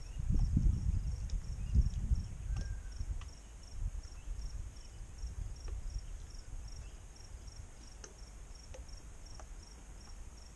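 An insect chirping in a steady, evenly repeated high-pitched pulse, about three pulses a second. Low rumbling knocks fill the first three seconds, and faint scattered clicks follow.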